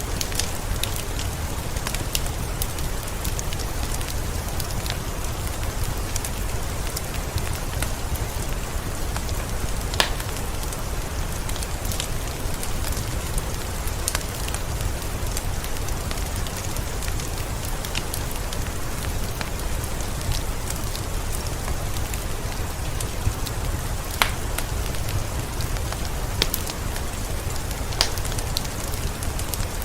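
Heavy rain falling steadily, with scattered sharp drops striking nearer surfaces, a few louder than the rest.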